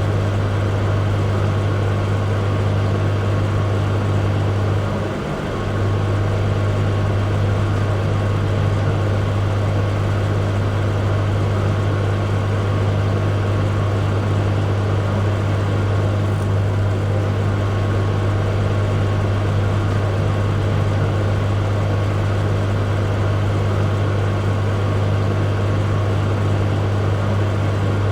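Microwave oven running: a steady low electrical hum with the whir of its fan and a faint thin tone above, dipping briefly about five seconds in.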